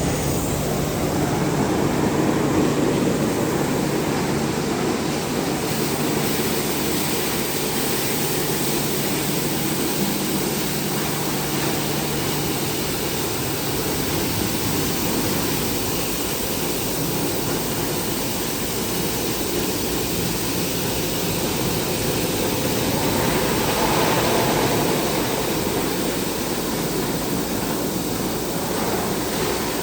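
Christ Vega C170 automatic gantry car wash running mid-cycle: a steady, loud rushing noise of spraying water and machinery. A low motor hum runs under it for the first half and then stops. The noise swells briefly about three-quarters of the way through.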